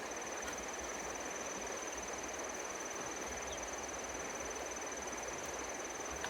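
Steady rushing noise of water being pumped out of a puddle, under a constant thin high-pitched whine.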